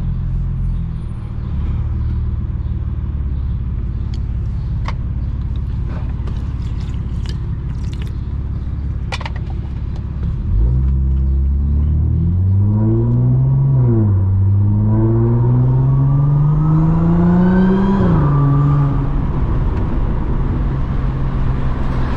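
Audi S4's supercharged V6 engine: a steady low rumble while cruising, then hard acceleration from about ten seconds in. The engine note climbs, drops briefly at an upshift, climbs again for several seconds, then falls back to a steady note as the throttle is lifted.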